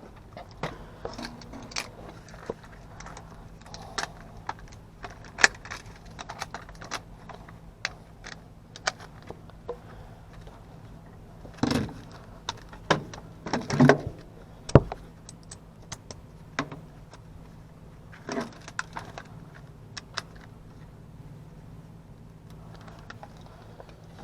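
Irregular metallic clinks, clicks and knocks of tools and metal parts being handled, with a few louder knocks about halfway through, over a faint steady low hum.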